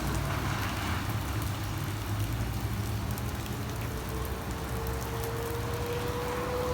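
Steady rain falling, over a low steady rumble. A faint whine starts about two-thirds of the way through and slowly rises in pitch.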